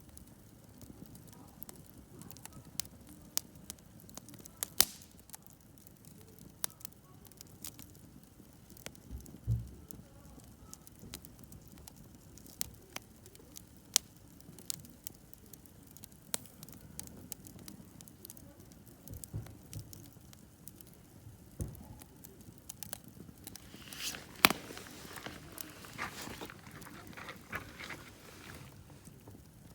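Wood campfire burning, crackling with scattered sharp pops over a low hiss. A dull thump comes about a third of the way in, and a little over three-quarters of the way through the crackling thickens into a quick flurry of pops and hissing.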